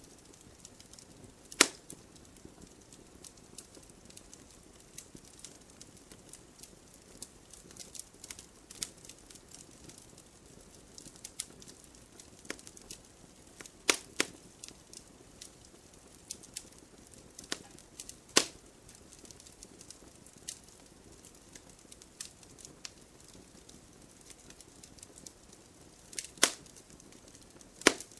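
Wood fire crackling: a steady scatter of small snaps and ticks over a faint hiss, with a few loud sharp pops from the burning wood.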